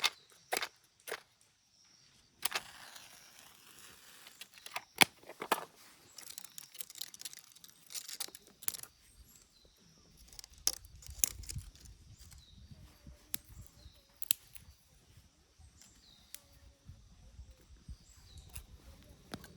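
A string of sharp clicks and knocks, several close together near the start and a few louder ones later, over a low rumble in the second half, with faint chirps.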